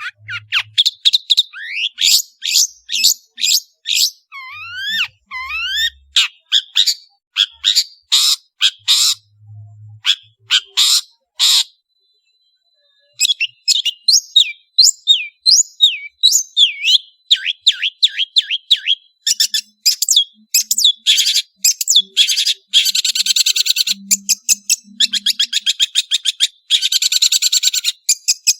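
Long-tailed shrike singing a fast, varied song of sharp high chirps and slurred notes, pausing for about a second and a half near the middle, then going into dense rapid trills toward the end.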